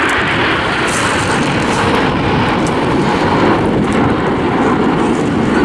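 Formation of BAE Hawk T1 jet trainers flying a display, their Rolls-Royce Adour turbofans giving a loud, steady jet noise.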